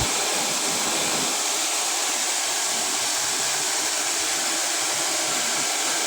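A steady, even hiss at a constant level, with no rhythm or pitch.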